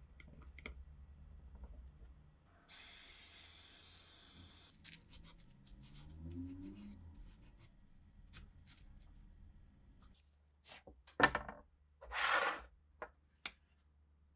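A steady spray hiss lasting about two seconds, among small clicks and handling noises from the rifle restoration work. About eleven seconds in comes a sharp knock, the loudest sound, followed by a brief rushing noise.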